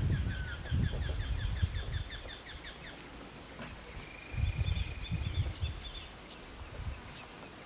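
Birds calling outdoors: a fast run of short repeated chirps for the first couple of seconds, then a short trill about four seconds in. Low rumbling noise comes and goes underneath.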